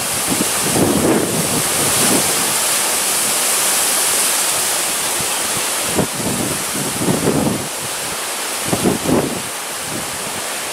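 Strong, stormy gusting wind rushing steadily, with gusts buffeting the microphone about a second in and again around six, seven and nine seconds.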